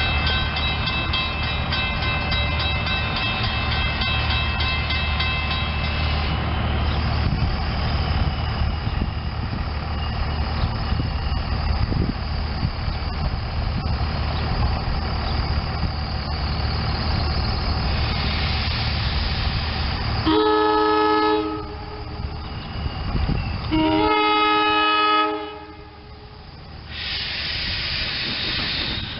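SEPTA Silverliner II electric multiple-unit train running with a steady low rumble, and a steady whine over the first six seconds. Its horn sounds two blasts of just over a second each, about twenty and twenty-four seconds in.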